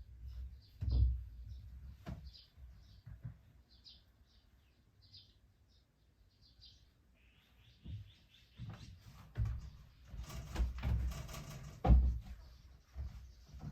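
Small birds chirping in short repeated calls for the first half. Through the second half, rustling and dull knocks from handling things take over, the loudest knock about twelve seconds in.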